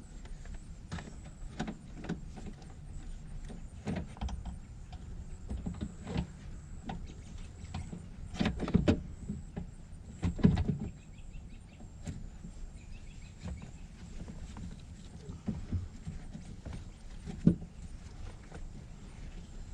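Irregular knocks, taps and clicks of hands working on car interior trim and speaker parts, with a cluster of louder knocks a little before halfway, a loud thump about halfway and another sharp knock near the end.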